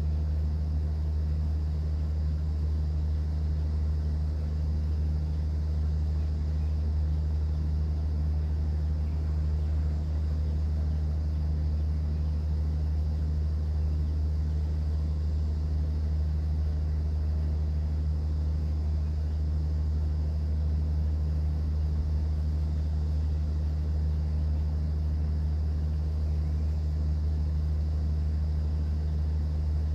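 Steady low drone of a cruise boat's engine running, with no change in pitch or level.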